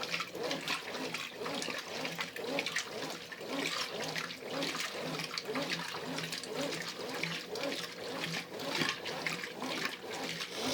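Brastemp Ative 11 kg top-load washing machine agitating in its wash stage: water and laundry sloshing in the tub with an even, rhythmic back-and-forth churn from the agitator.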